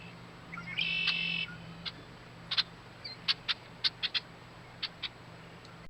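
Blackbird singing: one short buzzy trill about a second in, then a scatter of short, sharp call notes.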